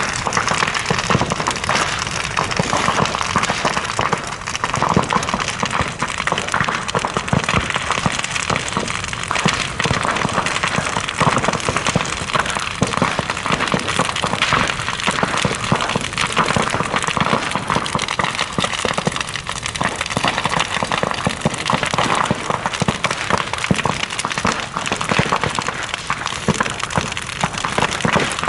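Large bonfire burning, crackling and popping densely and without letup.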